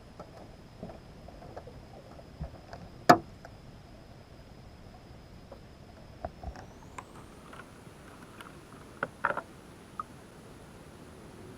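Scattered knocks and clicks of gear being handled in an aluminium jonboat, with one sharp knock about three seconds in and a few more near the end.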